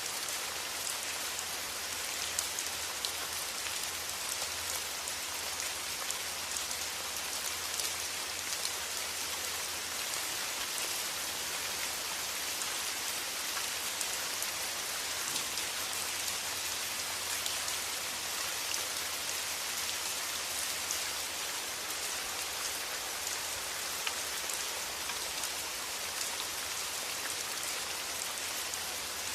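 Steady rain falling, an even hiss with scattered individual drop ticks, and a faint low rumble underneath.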